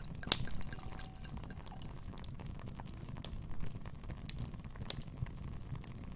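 Wood fire crackling in a fireplace: a low steady rush of burning under irregular sharp pops and snaps, the loudest pop just after the start.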